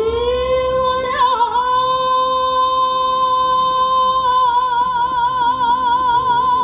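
A woman's voice singing one long held note in Korean traditional (gugak) style. The note swoops up into pitch at the start and again about a second in, is held steady, then takes on a wide, even vibrato from about four seconds in.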